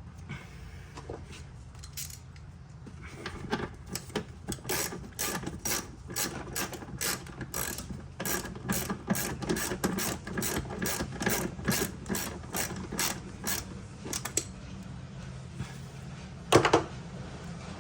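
Ratchet wrench clicking in quick runs of strokes, then a single loud knock near the end.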